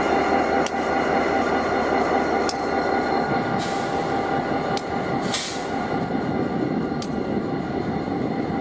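EMD 645-engined diesel locomotives running with a steady drone and high turbocharger whine. Sharp clicks come at intervals, and two short hisses come about three and a half and five seconds in.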